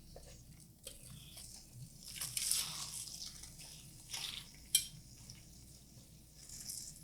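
Marinated galbi (Korean beef short ribs) sizzling in oil in a frying pan: an uneven hiss that swells a couple of times, with a sharp click of a utensil on the pan about five seconds in.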